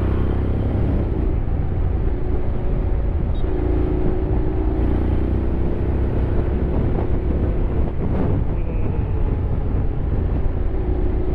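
Honda X-ADV 750's parallel-twin engine running steadily on the move, its pitch climbing gently a few seconds in and again near the end as the rider accelerates.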